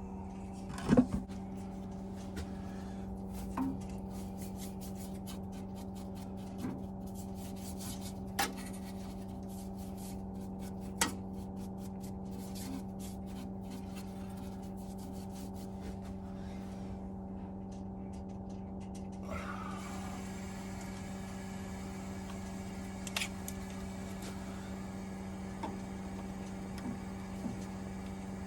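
A steady low electrical or motor hum, with a handful of light clicks and knocks of metal boiler parts being handled. The sharpest knock comes about a second in, and a faint hiss joins the hum about two-thirds of the way through.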